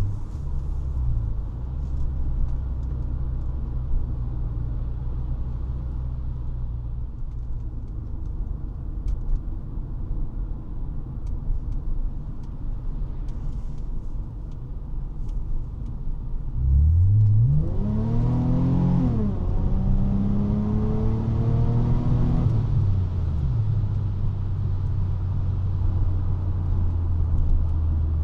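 1999 Honda Legend's 3.5-litre V6 exhaust running at a steady cruise. About 17 seconds in, it revs up hard under acceleration, drops in pitch at a gear change about two seconds later, and pulls up again. Near the end it settles back to a steady cruise.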